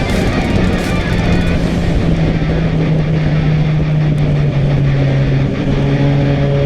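Motorcycle riding at a steady speed, with wind and road noise filling the sound, mixed with background electric-guitar music.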